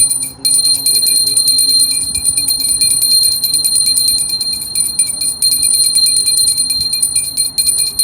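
High-pitched, bell-like electronic ringing: steady high tones pulsed by rapid, even ticking, like an alarm-clock bell. It stops abruptly near the end.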